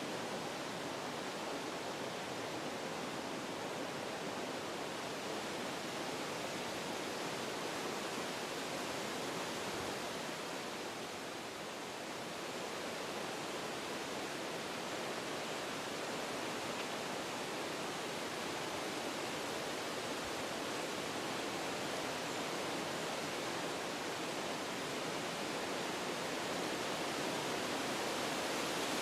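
Wind blowing through forest trees, a steady rushing that eases briefly about eleven seconds in, then builds again in a gust.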